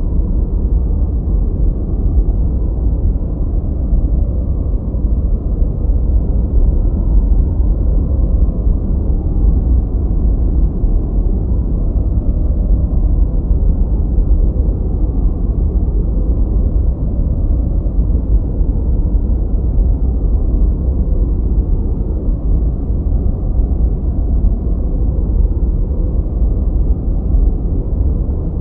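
Continuous noise track sold as white noise, steady and unchanging, but deep and muffled: its energy sits in the low end, with nothing in the high hiss range.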